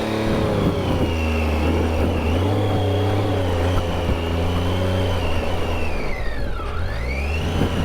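Triumph Tiger 800 XCa motorcycle's three-cylinder engine running under throttle, its pitch held fairly steady, then the revs dropping about six and a half seconds in and rising again near the end.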